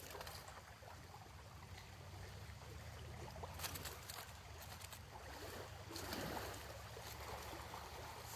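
Faint outdoor ambience of gently moving water and light wind rumble, with a few soft clicks and rustles of handling.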